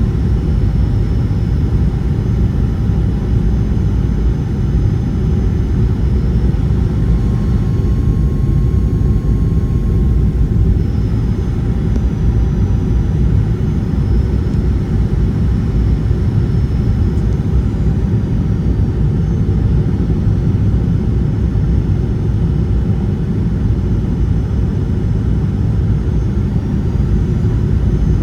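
Airliner cabin noise heard from inside the passenger cabin: a steady low rumble with no sudden thumps, holding level throughout.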